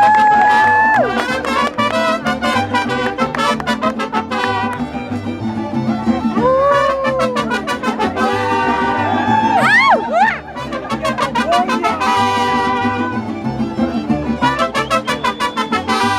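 Mariachi band playing: trumpets hold a long note that ends about a second in, then play bending runs with a sweeping upward flourish near the middle, over fast strummed guitars and a steady bass line.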